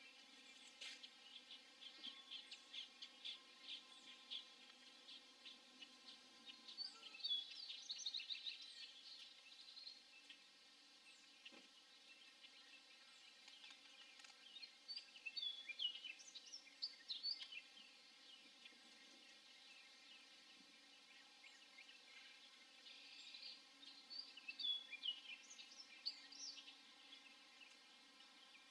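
Faint bird calls: short, high chirps in a string over the first few seconds, then three louder bouts of chirping about seven, fifteen and twenty-four seconds in, over a low steady background hiss.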